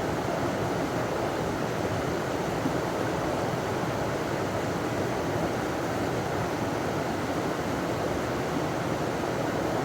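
River water pouring over a small waterfall: a steady rushing that never changes in level.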